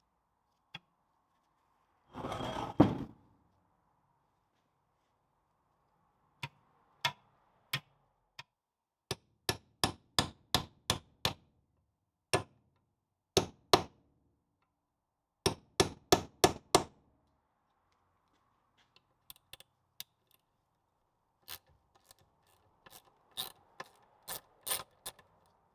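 A hammer striking metal on a Land Rover wheel hub: sharp separate blows in several quick runs, then lighter taps near the end. There is a short scraping rattle about two seconds in.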